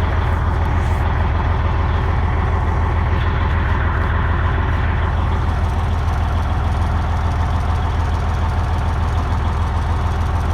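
Diesel engine of a Freightliner Century semi truck idling steadily, a constant low rumble.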